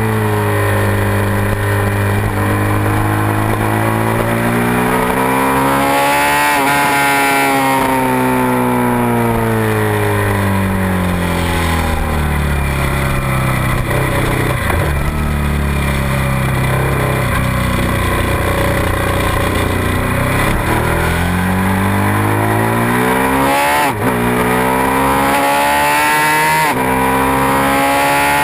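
Suzuki SV650's 645 cc V-twin engine at speed on a track. The revs climb for about six seconds, then fall away slowly through a corner, climb again under acceleration, drop sharply at a quick upshift about three-quarters of the way through, and climb once more.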